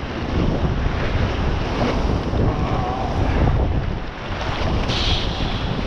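Wind buffeting the microphone over sea water washing and splashing, with a brief brighter splash about five seconds in.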